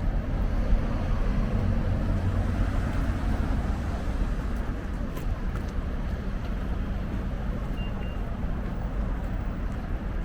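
Road traffic: the low rumble of vehicles on a street, a little louder in the first few seconds and then easing.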